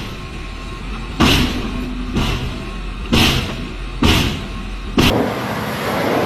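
Five sharp impacts about a second apart, each ringing briefly, over a steady low hum.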